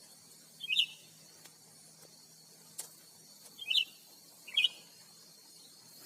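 Cucak ranting giving short, sharp high chirps, three in a few seconds, answering during a lure session. A single faint click sounds about halfway through.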